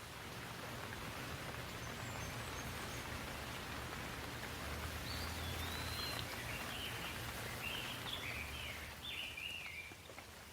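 Steady rainfall, with a songbird singing a warbling phrase of quick rising and falling notes about halfway through, after a few faint high chirps.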